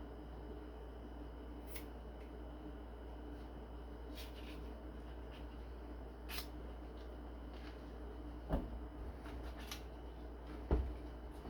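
Kitchen knife slicing summer sausage: scattered light clicks and scrapes, with two louder knocks of the blade coming down in the last few seconds.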